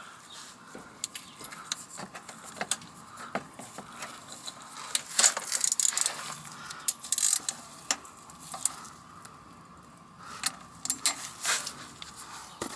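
Irregular metallic clicks and clinks of a wrench and oil filter cup tightening the oil filter on a car's engine.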